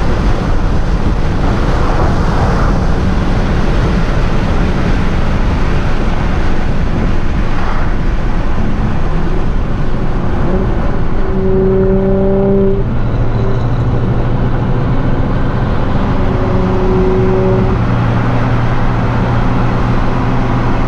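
A car's engine and road noise heard from inside the cabin at highway speed. A loud, dense rush for about the first ten seconds, then it settles into a steady drone with a held tone.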